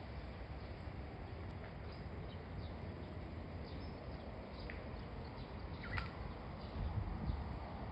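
Outdoor ambience of scattered faint bird chirps, with one clearer wavering call about six seconds in, over a steady low rumble.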